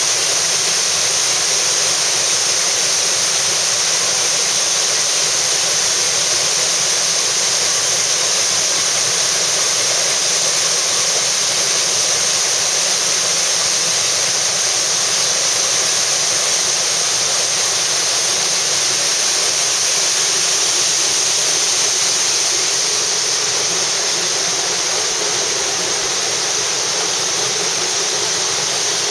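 Waterfall pouring steadily into a river: a loud, even rush of falling water.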